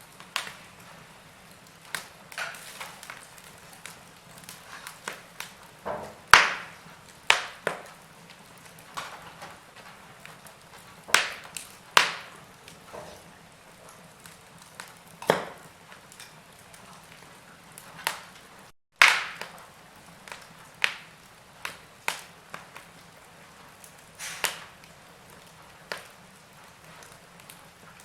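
Burning logs crackling in a fireplace: irregular sharp pops and snaps every second or two over a soft steady hiss. About two-thirds through, the sound cuts out for a split second and comes back on a loud pop.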